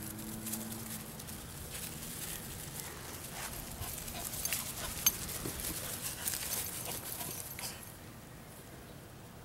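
A Dachshund puppy and a Puggle play-fighting: scuffling and rustling with many quick clicks, and one sharp click about halfway, dying down near the end.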